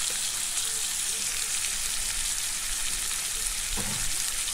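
Boiled potatoes with tomato purée and spices frying in hot oil in a kadai: a steady sizzle.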